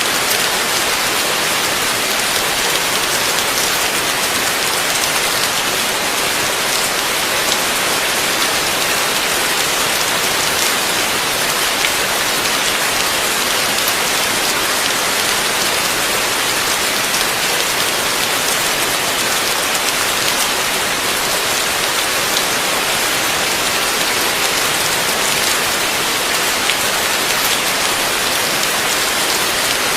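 Heavy rain falling steadily, a dense even hiss of drops on surfaces with no let-up and no thunder.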